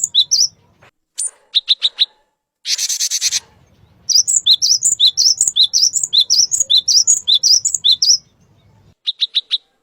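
Male cinereous tit (glatik batu) singing: fast, loud, repeated two-note phrases that alternate between a higher and a lower whistle. A harsh buzzing call comes about three seconds in, and short runs of quick notes come near the start and the end.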